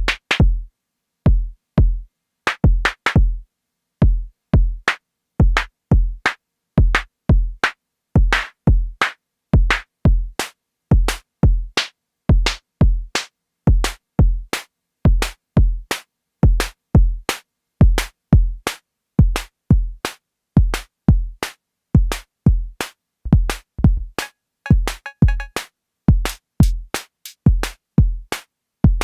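Arturia DrumBrute Impact analog drum machine playing a steady pattern of deep kick drums, mostly in doubled hits, with sharp snare and hi-hat strikes between them. About 25 seconds in comes a brief rapid roll of ringing, pitched metallic hits.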